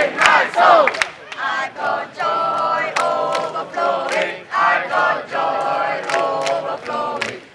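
A crowd of voices chanting a campfire song together in short, rhythmic phrases.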